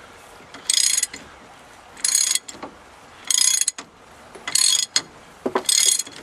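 A 3/4-inch-drive ratchet, with an extension and a reducer to 1/2 inch, clicking in five short bursts about a second apart as it is swung back and forth to loosen a stubborn fastener.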